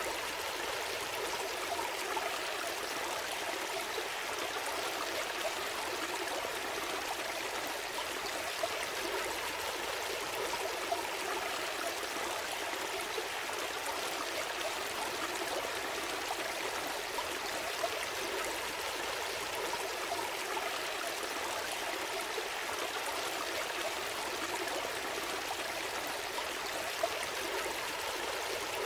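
Gentle stream flowing steadily, an even wash of running water with a brief sharper splash now and then.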